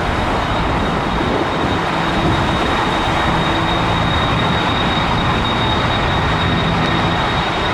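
Jet airliner engines running loud and steady close by, a broad rumble with a thin high-pitched whine held on top.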